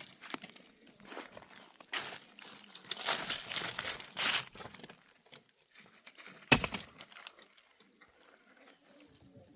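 Rustling, crinkling handling noise in bursts, with one sharp knock about six and a half seconds in.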